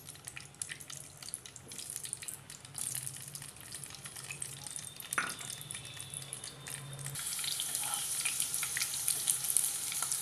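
Boiled potatoes frying in hot oil in a non-stick pan: crackling and spattering that grows into a steady, louder sizzle about seven seconds in as more pieces go in. A single knock about five seconds in.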